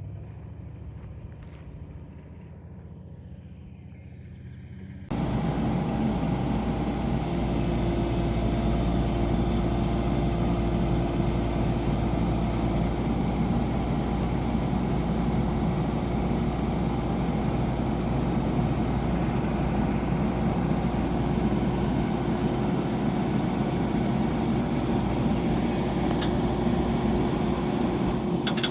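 A vehicle engine running steadily and loud, close to the microphone; it comes in abruptly about five seconds in after a quieter stretch.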